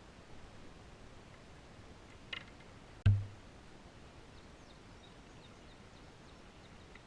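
A light click, then about a second later a single loud, low thump that dies away quickly, over a faint steady background; a run of faint high chirps follows.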